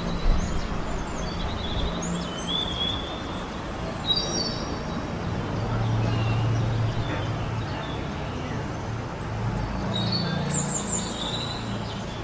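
Birds chirping and trilling in short calls, over a low steady hum.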